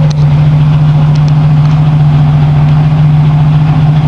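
Exhaust of a 1989 Chevrolet Celebrity's 3.1-litre V6 idling steadily, coming out of a single-muffler system with two tailpipe tips.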